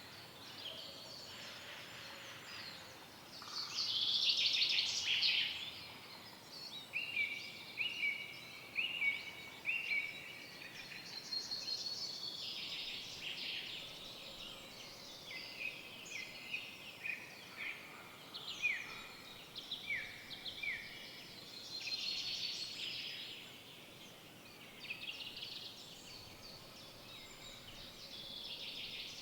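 Several forest songbirds singing and calling over one another against a faint background hiss. About seven seconds in there is a run of evenly spaced repeated notes, and a series of down-slurred whistled notes follows a little past the middle.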